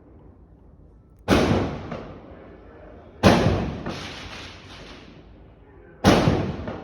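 Three firecracker bangs a couple of seconds apart, each sudden and followed by a long echoing tail.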